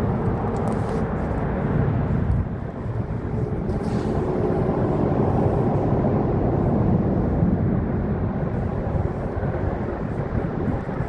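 CSX freight train rolling past with a steady low rumble.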